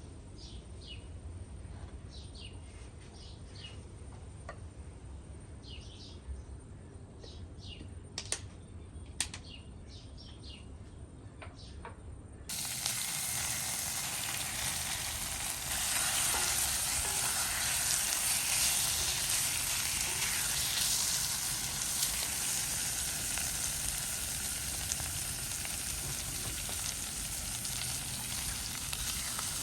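Birds chirping over a low outdoor rumble. About halfway through it cuts suddenly to food frying in hot oil in a pan: a steady, dense sizzle that gets louder a few seconds later.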